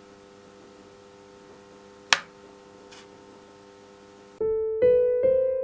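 Background piano music: a soft held chord at first, a sharp click about two seconds in, then piano notes struck one after another starting near the end, each fading away.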